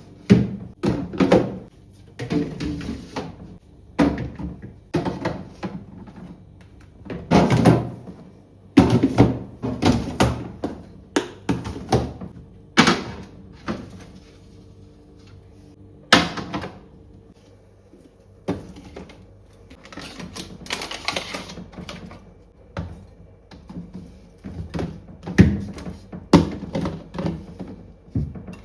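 Containers and jars being set down and shuffled on fridge shelves: irregular knocks and clicks of plastic and glass, with brief rustling between, over a faint steady hum.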